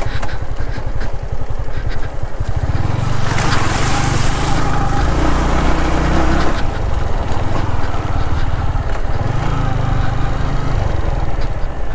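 Yamaha MT-15's single-cylinder engine pulling under throttle through a river water crossing, its revs climbing about two and a half seconds in and again near the end. A rush of splashing water comes in with the first climb and stops a few seconds later.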